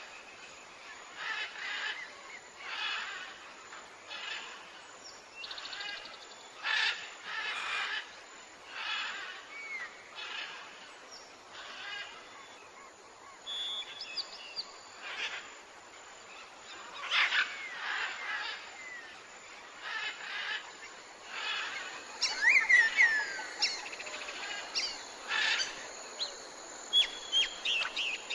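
Wild birds calling, short repeated calls every second or two with quick gliding chirps, and a brief flurry of chirps about three-quarters of the way through.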